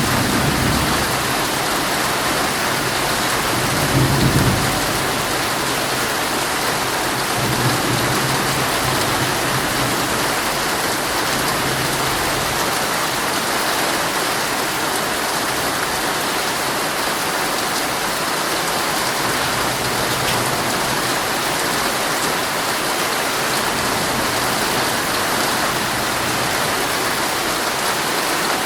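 Heavy rain pouring steadily on a tent, with low rumbles of thunder at the start, about four seconds in, and again between about eight and twelve seconds.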